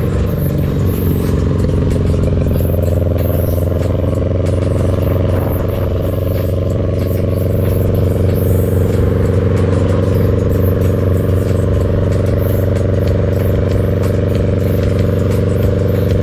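Motorcycle engines running at a steady cruising speed, a constant drone that gets a little louder about eight seconds in, with wind rushing past the microphone.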